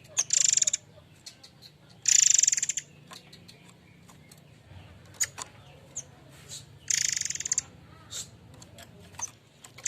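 Murai air mancur calling: three loud, harsh, rapid trills, each under a second long, with short sharp chips scattered between them.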